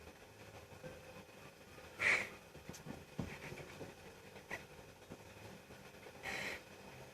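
Cats play-fighting: two short breathy hisses, about two seconds in and again near the end, with a few light knocks between.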